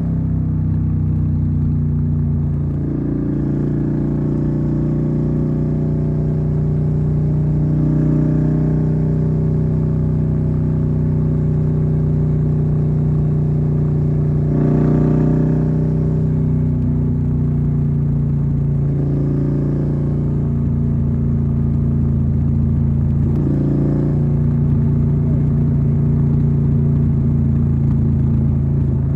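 Suzuki SV650's 90-degree V-twin engine running at a steady, even speed under way. There are brief changes in throttle about 3, 15 and 23 seconds in.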